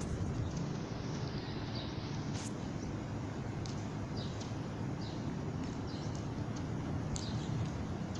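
Outdoor ambience: a steady low rumble with many short, high bird chirps scattered through it, and two brief sharp clicks, one about two and a half seconds in and one near the end.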